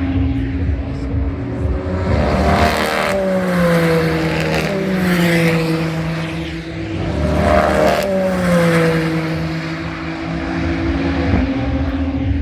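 Two GT race cars passing at speed about five seconds apart, each engine note dropping in pitch as it goes by, over a steady engine drone.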